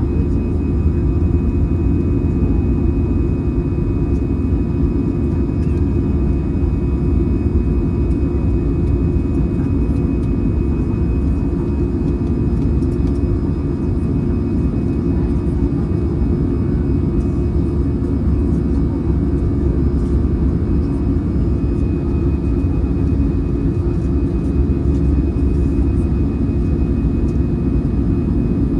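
Cabin noise of an Airbus A320 climbing after takeoff, heard from inside the cabin: its CFM56-5B engines at climb thrust make a steady deep rumble, with a faint steady high tone above it.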